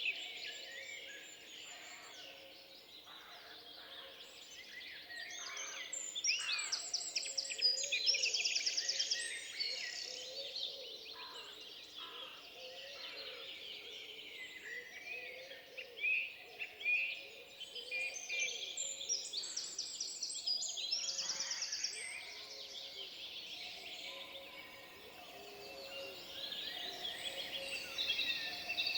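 Several songbirds singing and calling over one another, with fast, high trills about a third of the way in and again about two-thirds of the way through, over a faint steady background hush.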